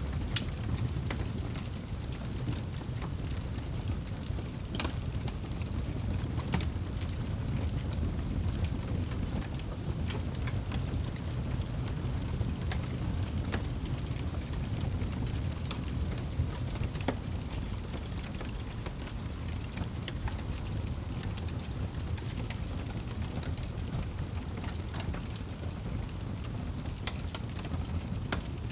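Wood fire crackling in a fireplace: a steady low rumble of burning, with scattered sharp pops and snaps from the logs.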